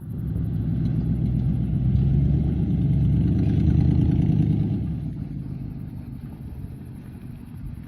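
Ford 5.4L Triton V8 exhaust, run through 2.5-inch pipes to 5-inch tips with all four factory catalytic converters still fitted, swelling louder for the first few seconds and then dying down to a lower rumble.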